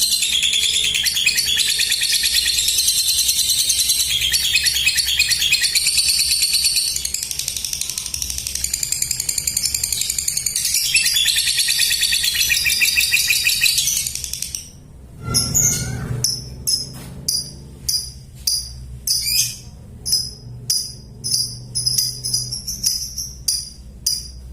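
Lovebird singing 'ngekek': a long, unbroken, rapid high-pitched chattering trill for about fourteen seconds. After a brief break come separate sharp chirps, about one or two a second.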